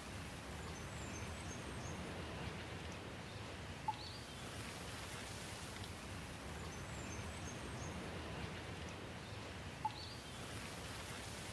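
Steady rain falling, with faint high bird chirps twice in the background. A single sharp drip tick sounds about four seconds in and again near the end.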